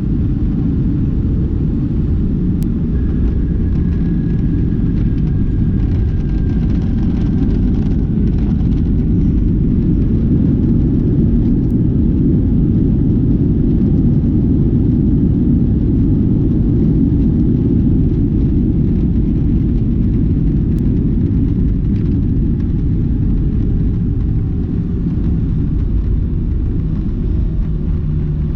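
Steady low rumble inside the cabin of an Airbus A319 after landing: engine and rolling noise as the airliner moves along the ground.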